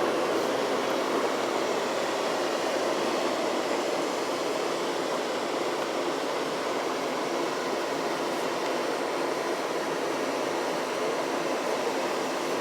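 Automatic car wash air dryer blowers running, a steady rushing noise that holds the same level throughout.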